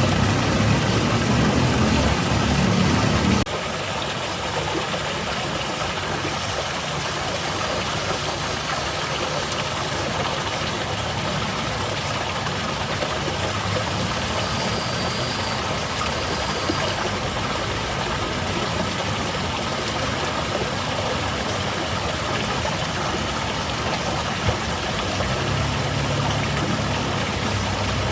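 Water falling down a small garden cascade, rushing and splashing steadily. A deeper rumble underneath stops abruptly about three seconds in and swells back near the end.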